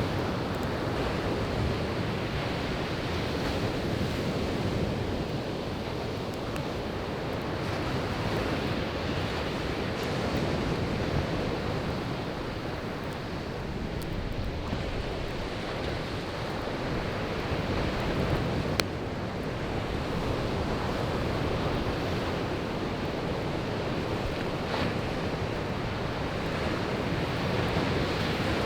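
Sea waves washing onto a beach, swelling and ebbing every few seconds, with a wood campfire crackling now and then. One sharp pop from the burning firewood stands out about two-thirds of the way through.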